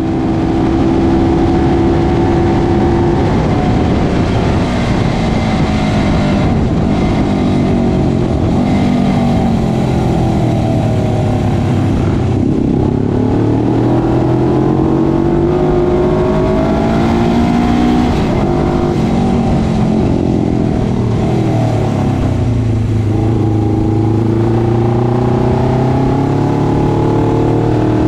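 Onboard sound of a 1977 Suzuki GS400's air-cooled parallel-twin engine at racing speed. Its pitch climbs under acceleration and drops as the bike slows for corners, with clear dips about 12 and 21 seconds in.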